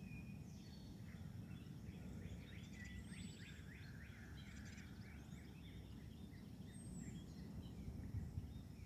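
Faint songbirds chirping and singing: quick trills and chirps, with a few high down-slurred whistles, over a steady low outdoor rumble.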